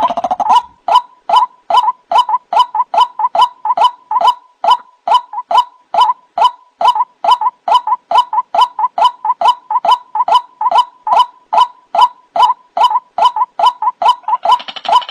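White-breasted waterhen calling: a long run of short, identical notes repeated about three times a second, with a harsher, denser stretch of calling at the very start and again near the end.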